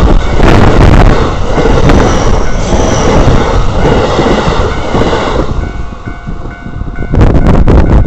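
A train passing through a railway level crossing, its wheels clattering and rumbling loudly. The train noise eases after about five seconds, and the crossing's warning bell comes through as a steady ringing. A short loud burst of wheel clatter follows near the end.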